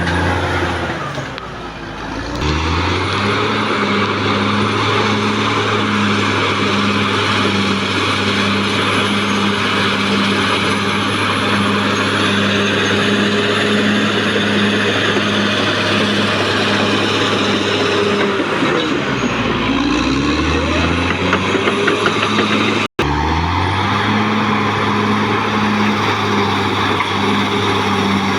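Caterpillar D6R XL bulldozer's diesel engine running steadily under load while it pushes earth. The engine lugs down and recovers twice, about a second in and again about two-thirds of the way through. The sound drops out for an instant near the end.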